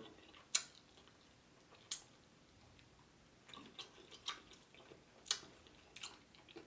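Person chewing fried chicken close to the microphone: scattered sharp mouth clicks, a few at first and then a busier run of small clicks in the second half.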